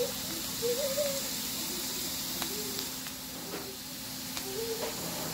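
Diced onions sizzling steadily in hot olive oil in a cast iron skillet, sweating down. Faint, brief wavering voice-like sounds come and go in the background.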